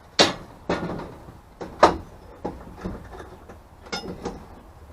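Metal clanks and knocks, about seven in all, some ringing briefly, as a lawn mower blade is handled and swapped out between sharpenings.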